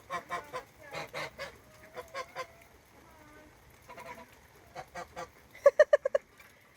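Domestic geese honking in a string of short calls, ending in a quick run of about five loud honks.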